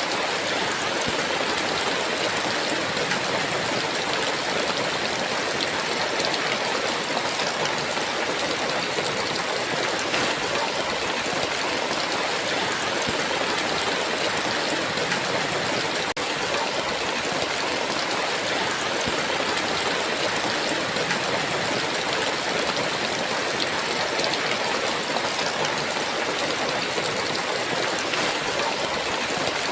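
Heavy rain falling steadily, a dense, even hiss with no pauses or changes in strength.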